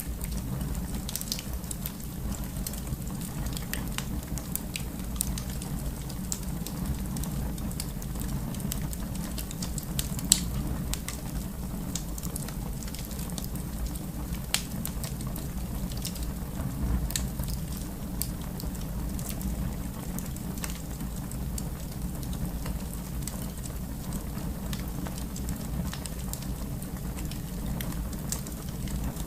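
Wood fire crackling in a fireplace: a steady low rumble of flames with scattered sharp pops and snaps, one louder pop about ten seconds in.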